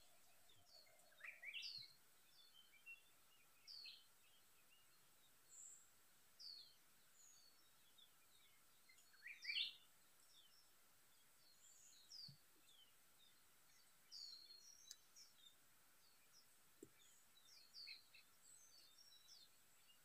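Faint small-bird calls: scattered short chirps and quick whistled notes that sweep up or down, with the loudest coming about a second and a half in and again near the middle.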